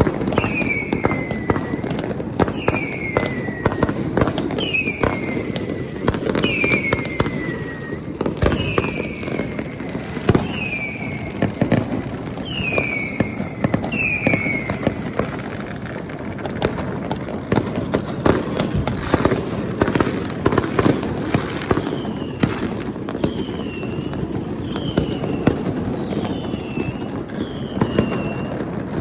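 Fireworks and firecrackers going off continuously, a dense run of sharp cracks and pops. Over them comes a repeated short falling whistle about every second and a half, which stops for a while past the middle and comes back fainter and higher near the end.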